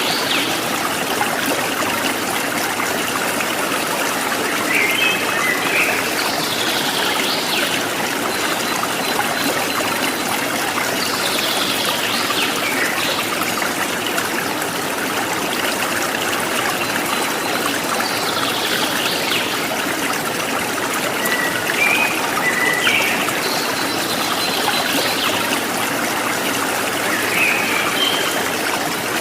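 A stream of running water trickling steadily, with short bird calls breaking in every few seconds.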